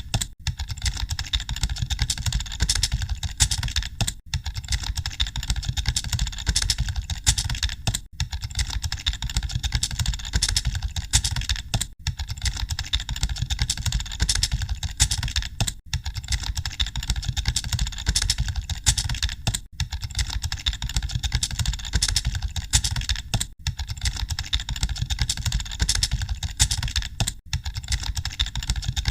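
Rapid typing on computer keyboards, a dense, continuous clatter of overlapping keystrokes. There is a brief dip about every four seconds.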